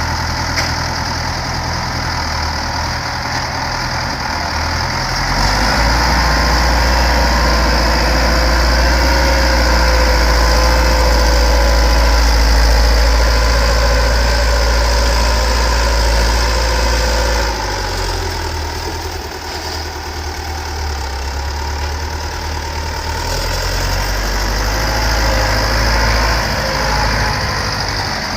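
Ford County 764 four-wheel-drive tractor's diesel engine working a buckrake on a silage clamp. The engine grows louder from about five seconds in, eases off after about seventeen seconds, and builds again near the end.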